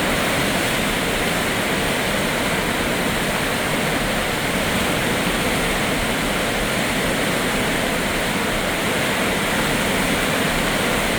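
Floodwater of the Skykomish River rushing past in a steady, loud roar of water.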